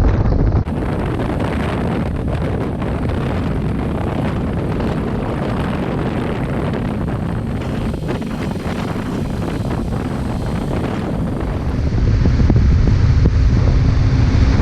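Wind rushing over the microphone of a moving motorcycle, with engine and road noise underneath. The sound changes abruptly twice, about a second in and near the end, where it grows heavier and louder.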